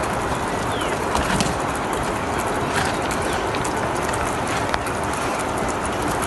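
Birds calling, with a few short chirps, over a steady background hiss.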